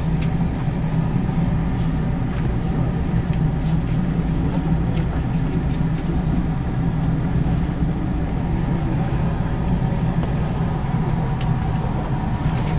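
Steady low hum in the cabin of an electric commuter train standing still, its onboard equipment running, with a few faint clicks.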